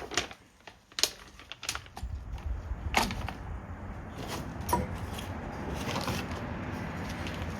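A few short, sharp clicks and knocks as bike rack parts are handled, over a steady low rumble that starts about two seconds in.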